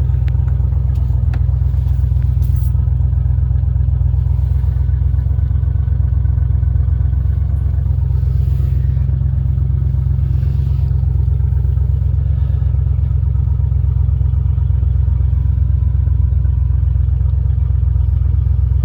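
1988 Ford F-150 engine idling steadily just after a freezing cold start at 14 °F, with a few light clicks in the first couple of seconds.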